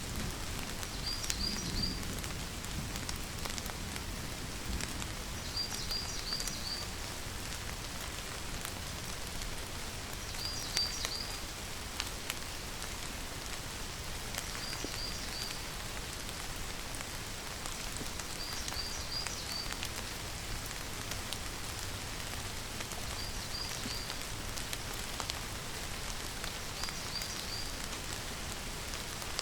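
Steady rainfall with scattered drop ticks. A short high chirp of three or four quick notes, from a small creature, repeats about every four to five seconds over it.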